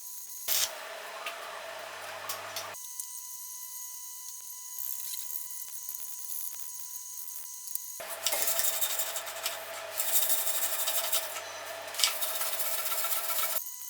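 Stick-welding arc from a 3.25 mm rutile electrode, crackling and hissing over a low electrical hum. There are two runs: a short one from about half a second in to near three seconds, then a longer one from about eight seconds in until just before the end.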